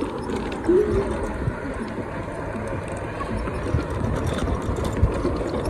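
Steady outdoor din of vehicle engines and moving floodwater, with faint voices.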